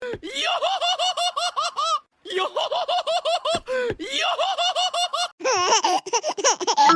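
High-pitched cartoon laughter: four runs of rapid giggling syllables with short breaks between them, the last run falling in pitch.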